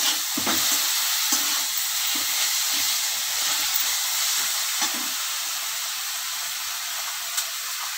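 Onions and ground garlic-ginger-onion paste sizzling in hot oil in a metal kadhai, with a metal spatula scraping and stirring through them. The stirring strokes thin out after about five seconds while the sizzle carries on.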